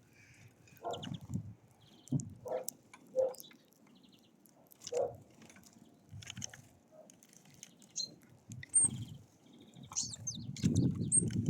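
Wild birds at a feeder calling: scattered short high chirps and a few quick rattling trills, with brief lower calls or knocks between them. A rushing noise swells near the end.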